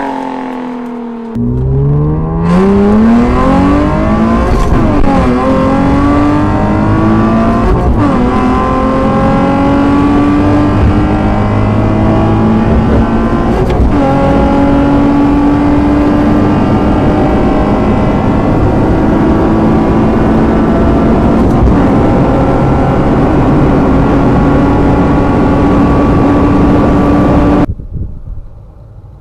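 Nissan 370Z's 3.7-litre V6 through an Armytrix valved exhaust, accelerating hard: the pitch rises quickly, drops briefly at two gear changes around 5 and 8 seconds, then climbs slowly in one long pull before cutting off suddenly near the end.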